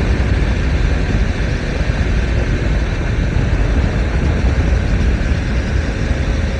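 BMW S1000R inline-four motorcycle engine running at steady speed under heavy wind rush on the microphone of the moving bike, with a strong low rumble and no sharp events.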